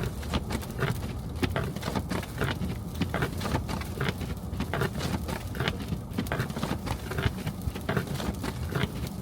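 A car driving through a snowstorm: a steady low road rumble with a dense, irregular crackle of snow and slush against the car.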